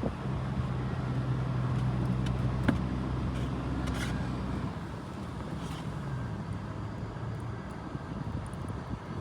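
A vehicle engine running with a steady low hum that fades away about halfway through, over a wash of wind noise, with a couple of sharp clicks.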